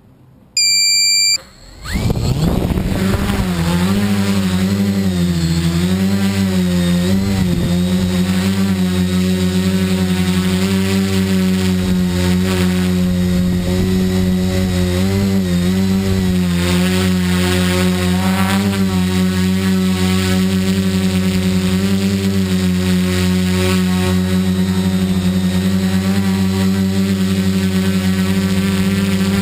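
A single high electronic beep, then about two seconds in a tricopter's brushless electric motors and propellers spin up and keep running, their pitch wavering up and down as the throttle shifts.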